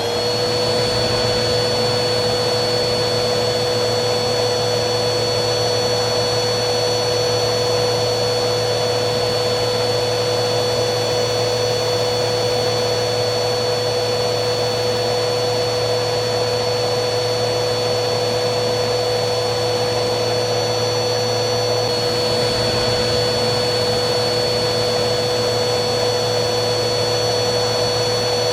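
Vacuum cleaner motor running steadily, a constant airy rush with a high whine on top. It comes up to speed right at the start.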